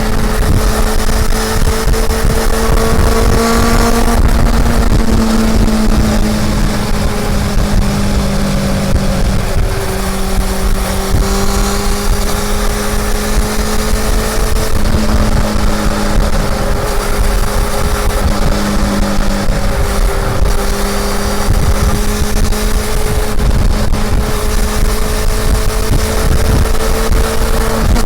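Honda CB400 Super Four's inline-four engine running under way. Its note climbs slowly and drops back several times, with wind noise underneath.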